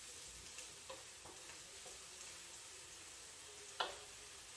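Spinach and tomatoes sizzling faintly in a pan over a gas burner, a steady soft hiss. A few light clicks in the first couple of seconds, and one sharper click near the end.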